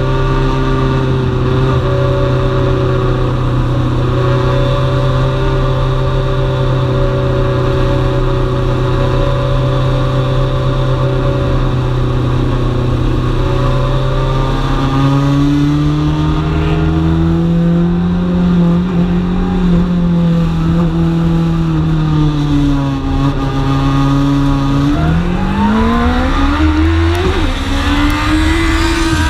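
Dwarf race car's motorcycle-derived engine at racing speed, heard from onboard the car: it holds a steady high pitch, rises and eases off in the middle, then revs up sharply about 25 seconds in as the car accelerates.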